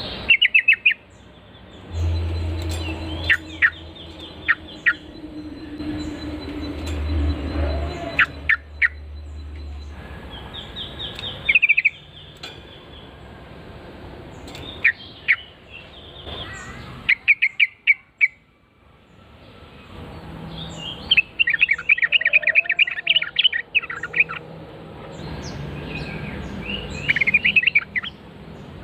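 Yellow-vented bulbul (trucukan) calling: short bursts of quick, bubbly chattering notes repeated about seven or eight times with pauses between, the longest burst a little past the middle.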